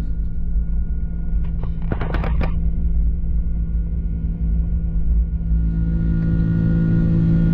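Airliner cabin noise from an Airbus A330-300's Rolls-Royce Trent 700 engines: a steady low rumble with a constant hum. A short run of rattles comes about two seconds in.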